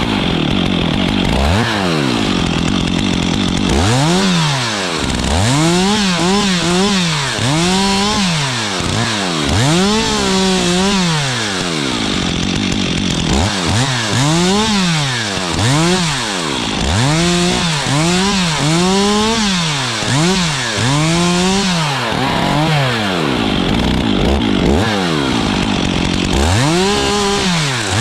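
Stihl chainsaw revving up and dropping back over and over, about once every second or so, as in a run of short cuts through brush and limbs.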